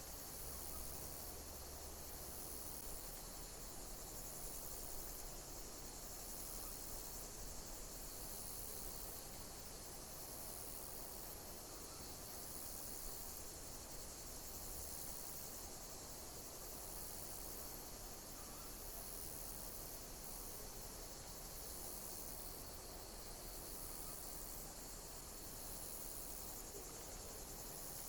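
Insects chirping: a steady high-pitched trill, with a repeating call coming back about every second and a half.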